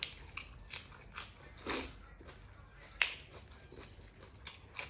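A person chewing food close to the microphone: irregular crisp crunches and wet mouth clicks, a few a second, with one loud crunch about three seconds in.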